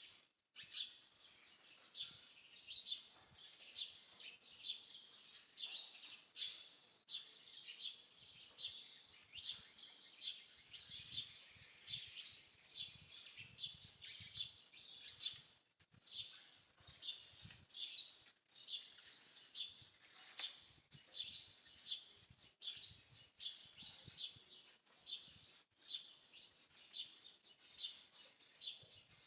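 Small birds chirping continuously: a steady stream of short, high chirps, several a second.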